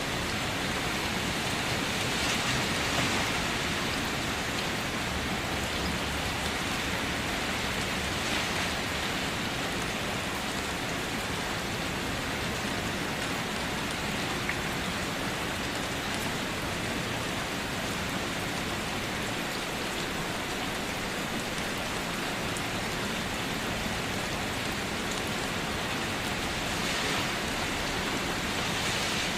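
Steady rain falling on a car, heard from inside as a continuous hiss of drops on the body, swelling slightly a few seconds in and again near the end.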